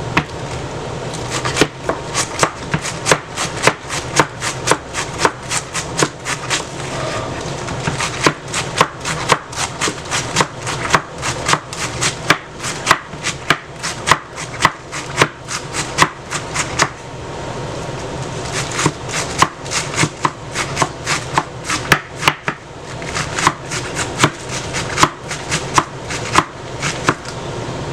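Knife chopping lettuce on a cutting board: a steady run of sharp cutting strokes, a few a second, broken by a few short pauses.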